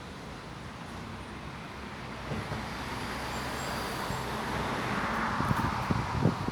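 A passing vehicle: a rushing noise that swells over several seconds and is loudest near the end, with a few short low knocks.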